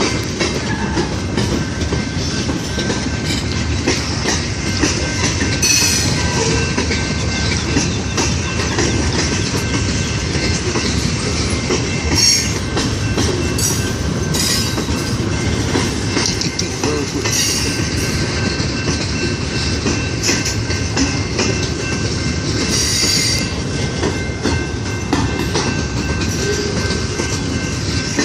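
Norfolk Southern mixed freight train rolling past, its wheels clattering steadily over the rail joints. Brief high screeches from the wheels come several times.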